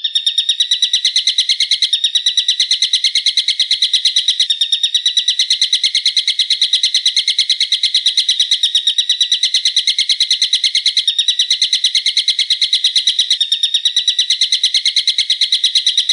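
Loud, sharp bird call repeated in a fast, even series of piercing notes, about eight a second, with a few brief breaks. It is a masteran recording, a call played to caged songbirds for them to learn.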